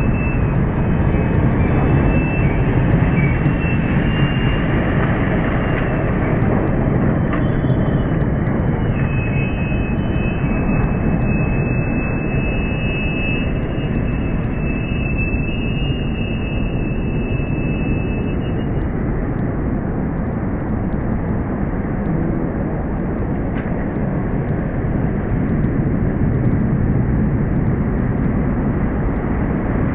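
Helicopters flying over, a loud, continuous rotor-and-engine noise, with a thin high whine over roughly the first two-thirds.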